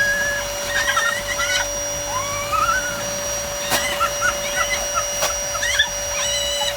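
An electric air blower runs with a steady hum as it inflates a giant balloon. Short high squeaks run over the hum, and two sharp clicks come near the middle.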